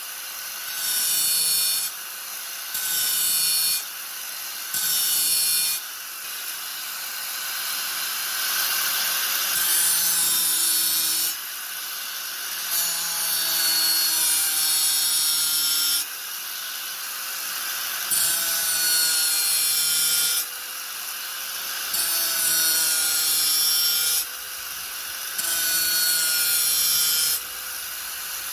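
Angle grinder running with its disc pressed against the work in repeated passes. A steady motor whine is broken by surges of harsh grinding noise, short ones of about a second and a few longer passes of several seconds.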